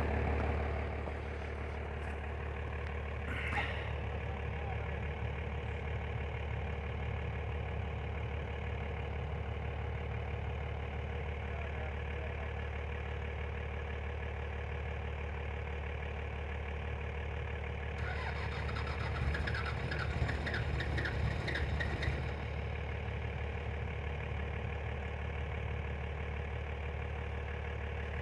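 Toyota Hilux engine idling steadily just after a cold start; it is a little louder for the first second before settling. An extra uneven noise joins the idle for a few seconds about two-thirds of the way through.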